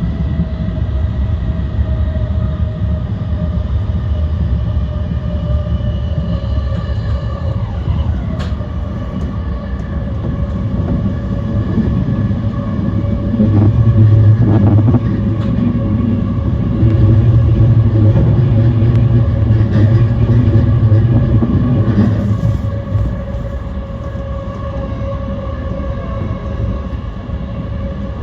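Yokosuka Line E235-1000 series electric train running along the track: a low rumble under a steady hum of several even tones. The rumble grows louder for several seconds in the middle, with a few sharp clicks.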